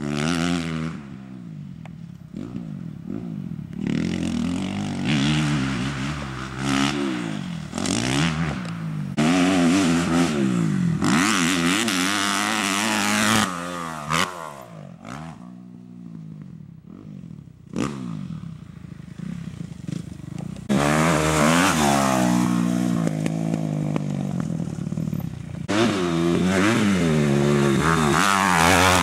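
Kawasaki KX250F four-stroke single-cylinder motocross engine revving hard and backing off again and again, its pitch climbing and dropping as the throttle opens and closes. It is loudest in stretches near the middle and toward the end, and quieter in between.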